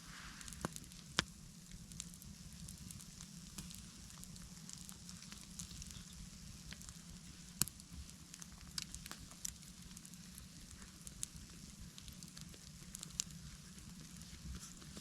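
Campfire crackling: irregular snaps and pops over a soft hiss, with a few sharper pops about a second in, halfway through and near the end.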